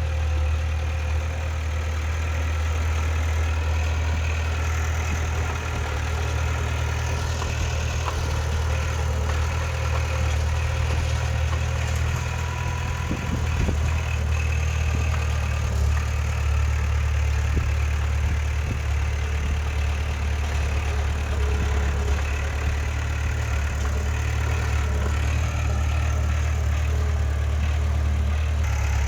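Diesel engine of heavy earthmoving machinery running steadily, a low, even drone that holds at the same level throughout.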